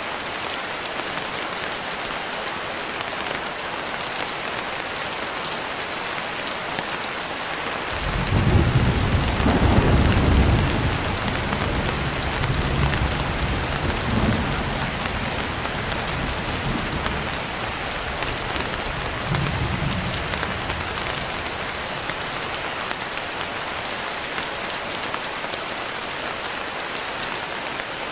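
Steady rain falling, with a rolling rumble of thunder that comes in about a third of the way through, is loudest for a couple of seconds, then dies away over about ten seconds while the rain goes on.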